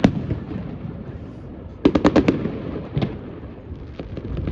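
Aerial fireworks going off: a sharp bang at the start, a quick run of cracks about two seconds in, and another single bang about a second later, with a low rumble of echoing booms in between.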